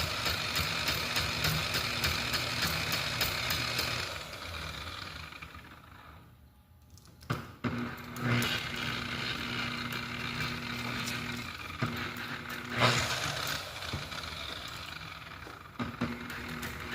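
DeWalt variable-speed buffer running, with a small tool held against its spinning pad to work it up, then winding down about four seconds in. The motor starts again a few seconds later and runs steadily, with a few knocks.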